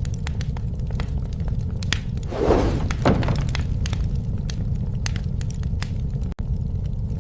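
Bonfire of burning wood crackling and popping over a steady low rumble, with a louder burst of noise about two and a half seconds in. The sound cuts out for an instant near the end.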